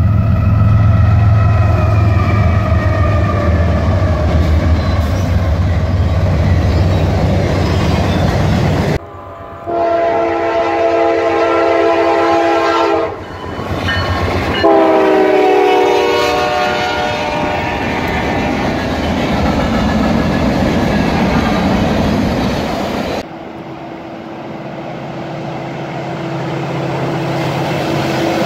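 Freight trains passing in quick succession, with abrupt changes at two cuts. First a heavy diesel rumble under a distant horn. Then a Norfolk Southern locomotive's horn sounds two long blasts, the second falling in pitch as it passes close by. Near the end comes a steady low hum and rumble from a passing locomotive.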